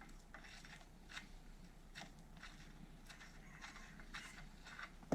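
Faint, scattered small scrapes and clicks of hand work on a motorcycle's kickstart lever, about one every half second to second.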